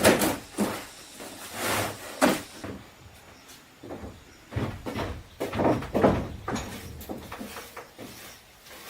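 Irregular knocks and scrapes, with a few longer swishes, as of objects being handled and moved about.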